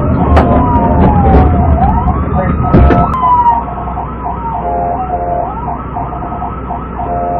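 Police car siren wailing in slow sweeps down and up, then switching to a fast yelp about halfway through, over the low rumble of the patrol car's engine and road noise during a pursuit. The rumble drops away abruptly near the middle.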